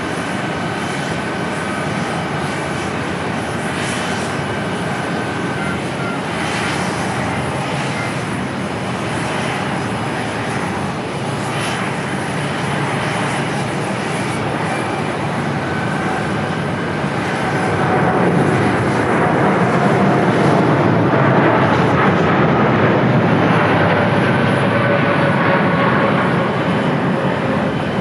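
Landing airliner's engines, a steady rush and whine that swells louder about two-thirds of the way through as the plane passes close, with its tones slowly falling in pitch.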